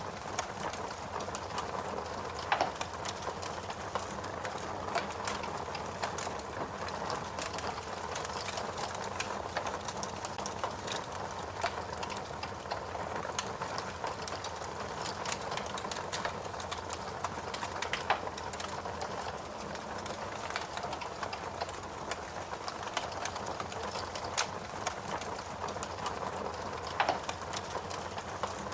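Wood fire crackling steadily, with a continuous hiss and many small snaps and a few louder pops.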